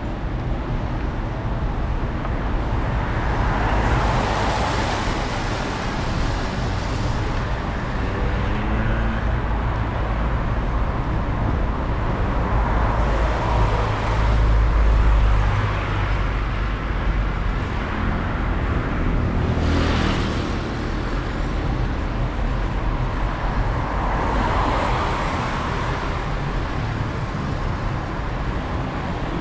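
Cars passing along a wet street, each one's tyre hiss swelling and fading as it goes by, about four times, over a steady background of traffic noise.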